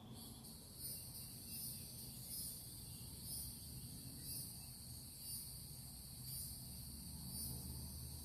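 Insect chorus: a steady high-pitched buzz that starts suddenly and swells gently about once a second, over a faint low rumble.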